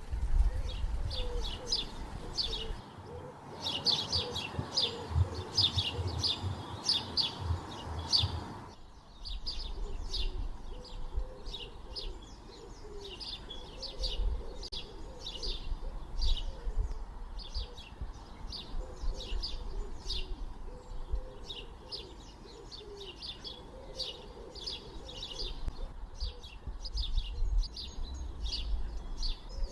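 Birdsong: many birds chirping in quick short notes, with lower warbling calls underneath and a low rumble beneath the birds.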